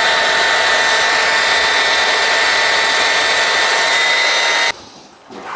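Handheld paddle mixer drill running at a steady speed with a whine, mixing a bag of thinset mortar; it cuts off suddenly near the end.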